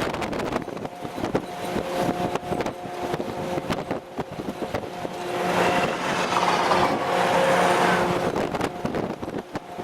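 Military convoy vehicle driving, with a steady whine, rapid rattling and wind rush; the noise swells louder about six to eight seconds in, then falls back.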